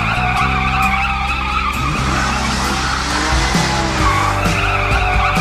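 Cartoon sound effect of tyres squealing as a van's wheels spin under load: one long, steady squeal over background music.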